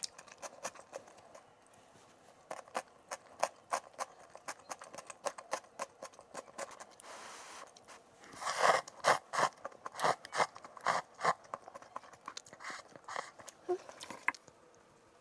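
Kitchen work sounds: a run of irregular sharp clicks and taps from utensils, with a short hiss a little past halfway and a louder, denser cluster of knocks about nine to eleven seconds in.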